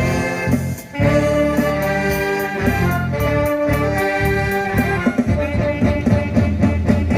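An amateur band plays live with brass and saxophone over a steady bass beat, with a brief pause just before a second in.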